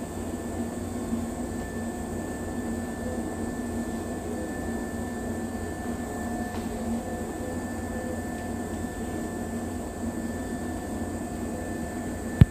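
Keisei 3500 series electric train at a standstill: a steady hum with a few held tones over low noise, and one sharp click near the end.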